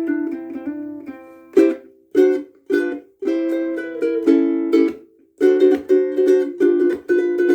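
Kiwaya KKS2 soprano ukulele of Kauri pine, strung with Loprinzi fluorocarbon strings, being strummed in a run of chords. The notes ring on between strokes, and there is a brief pause about five seconds in.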